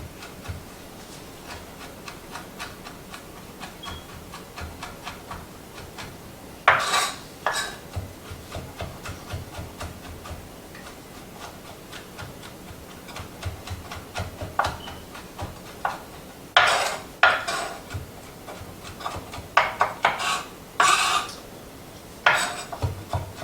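Knife dicing roasted pine nuts on a cutting board: many light, quick taps of the blade, with a few louder scraping strokes now and then.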